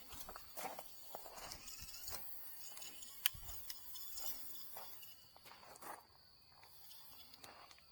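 Footsteps and rustling handling noises, with a sharp click about three seconds in, against a steady high-pitched insect whine that fades in near the end.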